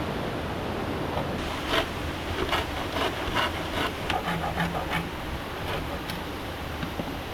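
Steady rush of river water. A run of irregular sharp knocks or taps comes through it over a few seconds in the middle.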